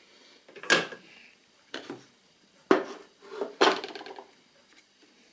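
The plastic case and parts of a small portable radio being handled during disassembly: about four sharp knocks and clatters against a hard surface, each with a short rattle.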